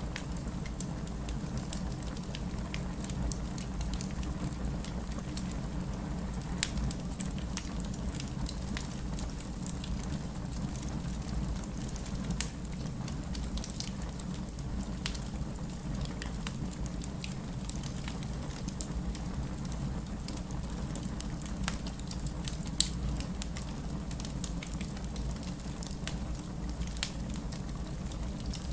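Wood fire burning in a fireplace, crackling with scattered sharp pops over a steady low rumble of the flames; one pop about three-quarters of the way through is louder than the rest.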